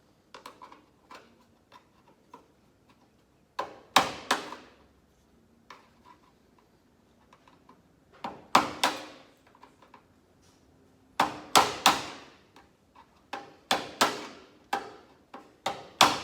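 Hammer blows driving a chisel behind a caravan's exterior panel to work it off a rivet, struck in short groups of two to four sharp, ringing hits with pauses between.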